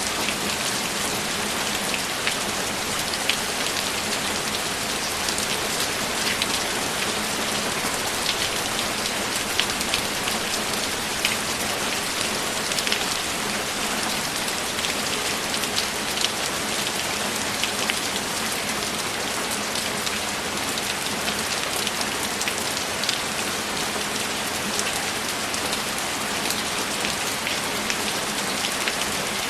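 Steady heavy rainfall, a dense even hiss with scattered sharper drop ticks.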